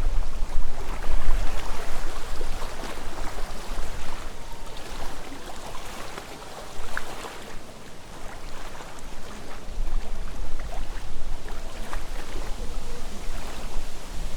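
Gusty wind through the trees with rustling leaves, and wind buffeting the microphone as a low rumble at the start. The gusts ease off in the middle and pick up again toward the end.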